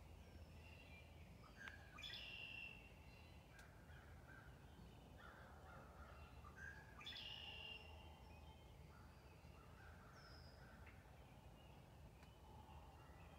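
Faint bird calls: short calls scattered throughout, with two clearer ones about two seconds in and again about seven seconds in.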